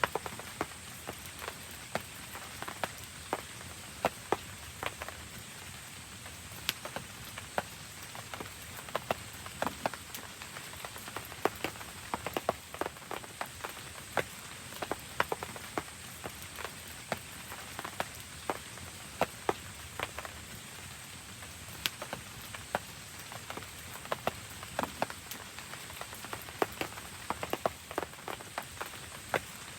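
Campfire burning in steady rain: a constant rain hiss with frequent irregular sharp pops and ticks.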